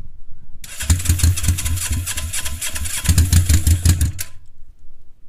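Suzuki GS 500's air-cooled parallel-twin engine, with no muffler, on its first start after winter storage: it catches about half a second in, runs in uneven surges for about three and a half seconds, dies, and catches again right at the end. It is not yet running steadily, but each run lasts a little longer.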